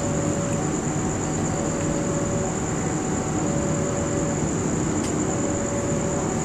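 Steady rumble of a train standing at a station, with a steady high whine over it. A two-tone signal alternates between a lower and a higher note, each held about a second, throughout.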